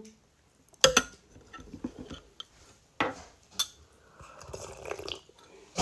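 Tableware clinking and knocking: a sharp knock about a second in and another about three seconds in, with light rattling and scraping between them.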